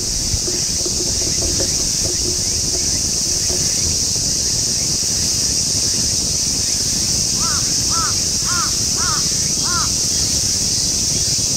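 A crow caws five times in quick succession about two-thirds of the way in, over a steady high-pitched hiss and a low wind rumble.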